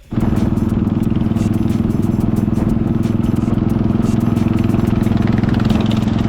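Motorcycle engine running steadily at a constant speed, heard from on the bike.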